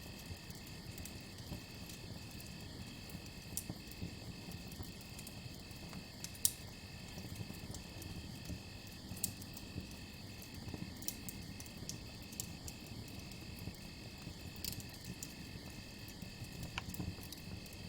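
Crickets chirping in a steady, evenly pulsing rhythm, over a campfire's low rumble and scattered sharp crackles, the loudest pop about six seconds in.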